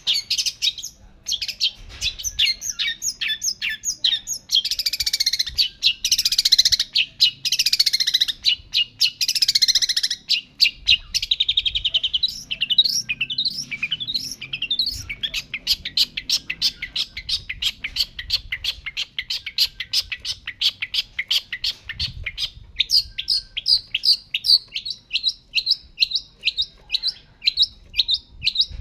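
Long-tailed shrike (pentet) in full, non-stop song. In the first half it gives a dense run of rapid, high chattering notes, and later a steady series of sharp repeated notes at about two a second.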